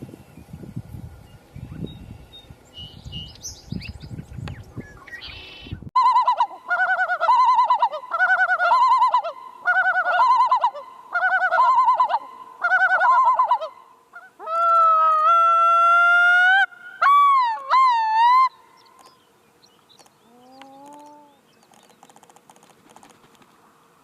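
Bird calls: about five repeated warbling phrases, then a long, clear call held for a few seconds that ends in wavering notes, with fainter calls after.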